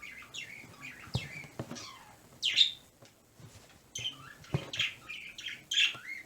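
Pet birds chirping and calling in a rapid string of short, high, downward-sweeping notes, with a couple of soft knocks among them.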